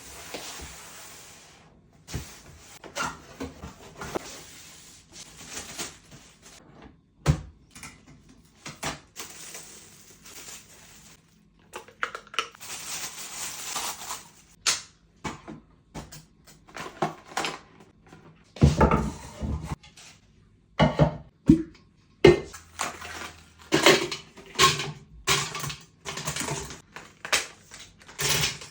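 Unboxing of a Nespresso coffee machine: cardboard and plastic packaging rustling and crinkling, with repeated knocks and clatter as the box and machine parts are handled and set down.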